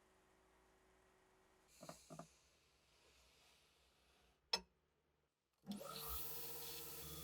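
Quiet workshop handling: two light knocks, then one sharp click, then a steady mechanical running sound with a low hum that starts near the end.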